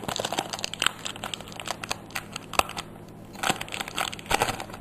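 Pokemon booster pack's foil wrapper crinkling and crackling as it is handled and torn open, in a string of sharp crackles with two louder bursts near the end.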